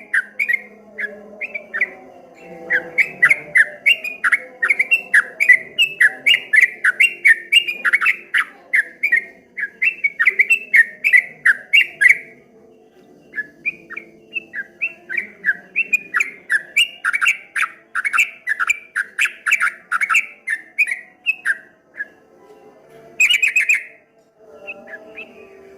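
Yellow-vented bulbul (trucuk kebo) singing a fast run of repeated chirping notes, about three a second. It pauses about halfway, then starts again. A short harsh call comes near the end.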